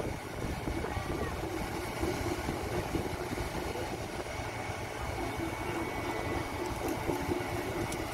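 A large engine running steadily, with people talking faintly in the background.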